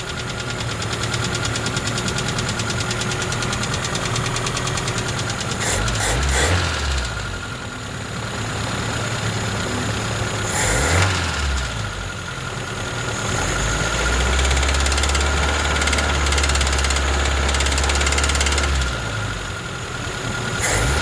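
ZAZ Slavuta's 1.3-litre four-cylinder engine running with a steady, rapid knock, its speed shifting a few times. The knock persists after a carburettor stud that fell into the second cylinder was removed, and four mechanics have not found its cause.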